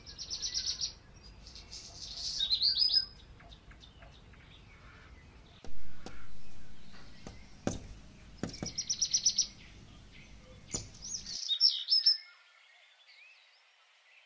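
Small birds chirping outdoors in quick trilled phrases of high notes and rising whistles, four bursts in all. There is a short burst of noise about six seconds in and two sharp clicks. The sound drops to near silence about twelve seconds in.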